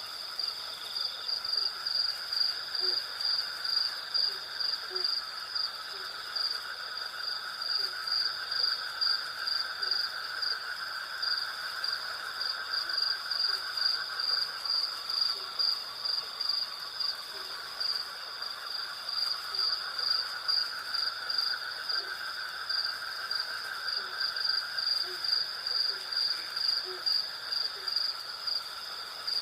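Night chorus of crickets and other insects: a high chirp pulsing about twice a second over a steady trill, with a lower buzzing that swells and fades. Scattered faint, short low notes sound now and then.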